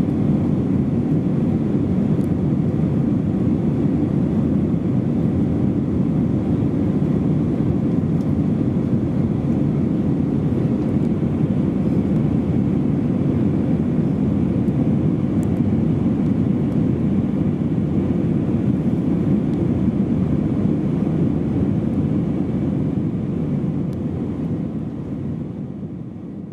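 Cabin noise of an Airbus A320-232 in flight, heard from inside the cabin: a steady, deep roar from its IAE V2500 engines and the airflow past the fuselage, fading out near the end.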